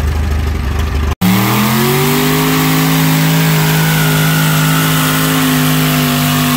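An engine running steadily at low speed, then after a sudden cut a second engine that revs up over about a second and holds at high, steady revs.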